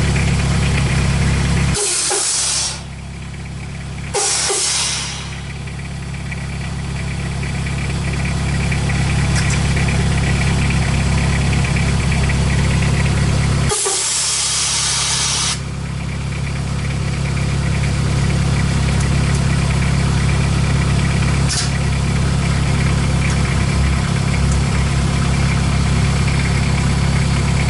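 Toyota FJ40's 2L-T turbo-diesel four-cylinder engine idling steadily. Three loud bursts of hissing break in, about two seconds in, a couple of seconds later, and a longer one about half way through.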